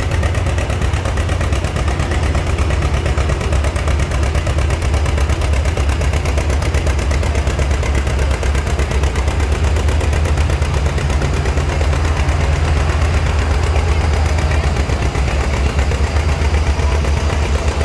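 Antique tractor engine running loud and steady, its exhaust firing in a rapid, even beat.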